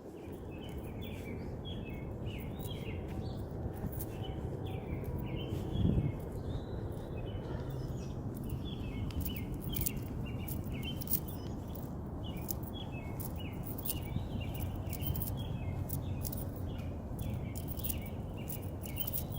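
Birds calling at dusk, many short chirps repeated again and again, over the low steady rumble of a distant train. One brief low thump about six seconds in.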